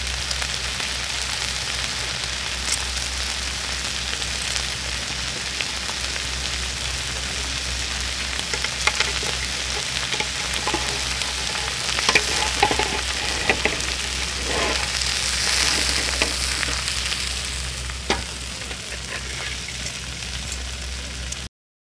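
Pacific saury grilling over a wood campfire: a steady sizzle of fat and juices dripping onto the fire, with scattered pops and crackles in the middle.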